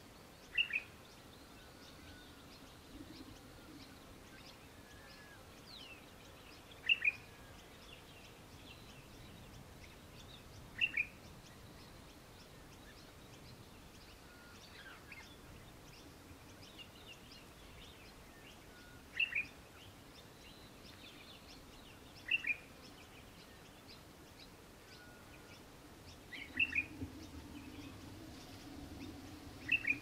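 A bird gives a short, sharp call that falls in pitch, repeated about eight times at intervals of three to four seconds, some calls doubled. Fainter chirping of small birds runs underneath.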